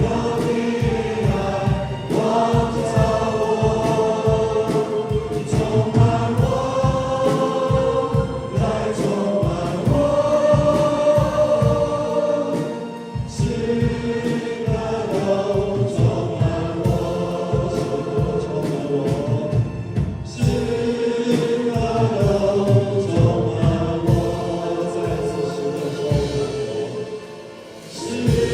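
Worship band and congregation singing a worship song together, with keyboard accompaniment over a steady beat. The music thins out briefly about halfway through and again near the end.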